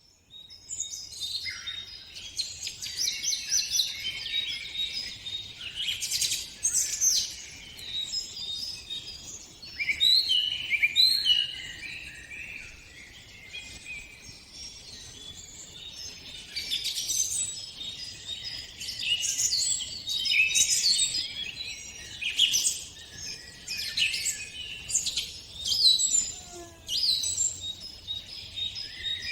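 Several songbirds singing and chirping at once, a busy chorus of short overlapping trills and whistled phrases that swell and ebb every second or two.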